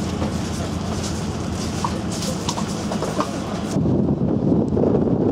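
Heavy vehicle engine running with a steady drone. About two-thirds of the way in, the high hiss cuts off and a rougher, louder low rumble takes over.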